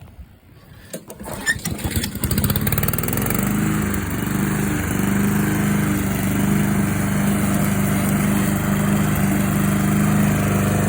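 Vintage Honda lawn mower's engine starting: a few short clicks about a second in, then the engine catches about two seconds in and settles into a steady, loud run.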